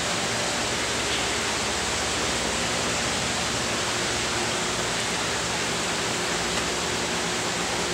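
A steady, even rushing hiss with a faint low hum beneath it, unchanging throughout.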